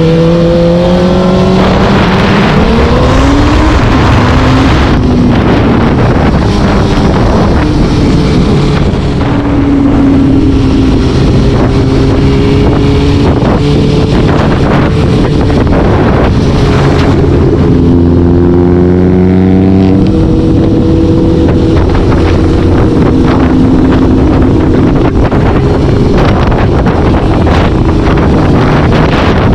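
A vehicle engine running under way: its pitch climbs as it accelerates over the first few seconds, then settles and holds with a few shifts. Wind buffets the microphone.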